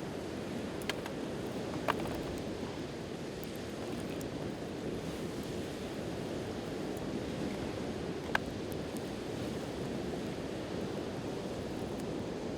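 Steady wash of sea waves with a wood campfire crackling, giving a few sharp pops, the loudest about two seconds in and about eight seconds in.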